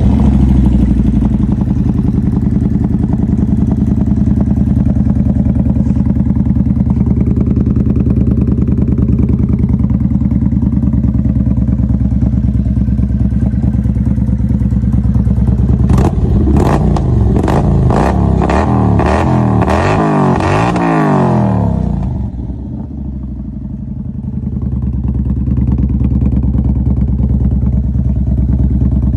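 Kawasaki Vulcan 900's V-twin running through a Thunder 2-1 full exhaust system, idling steadily, then blipped through a series of quick revs a little past halfway before settling back to idle.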